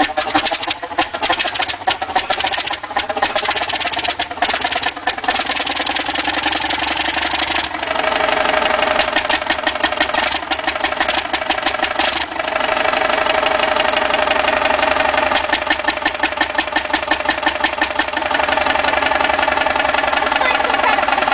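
An old engine running with a steady, rapid firing beat. Its sound shifts briefly about eight seconds in and again about twelve seconds in.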